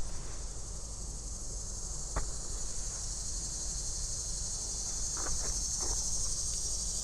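A steady, high-pitched chorus of insects droning without a break, with a few faint clicks about two seconds and five seconds in.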